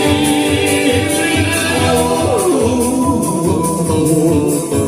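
Live country band playing, with a singing voice holding and sliding long notes over a steady drum beat.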